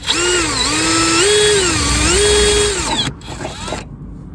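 Power drill boring a hole in the car's body panel for a dent-puller screw: the motor whine steps up and down in pitch as the trigger is worked for about three seconds, stops, then gives one short final spin.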